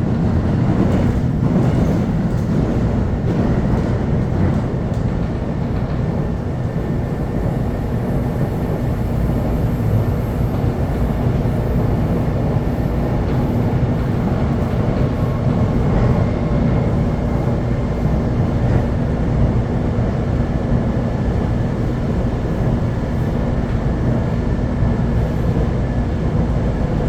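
Electric commuter train running steadily along the line, heard from inside the carriage: a continuous low rumble of wheels on track with a steady electric hum.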